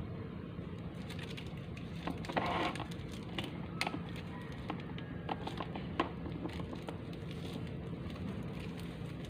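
Scattered clicks and light knocks of small parts being handled while a neck fan is taken apart or put back together, over a steady low hum.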